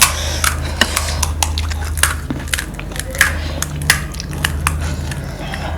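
Panipuri being eaten: irregular crisp cracks and clicks of the hollow fried puri shells and chewing, over a steady low hum.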